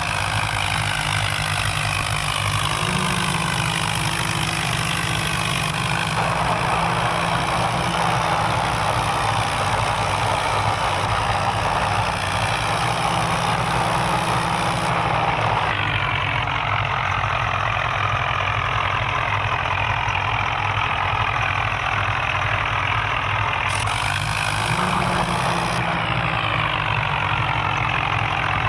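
Vehicle engine running steadily under power, its pitch stepping up about three seconds in and again near the end.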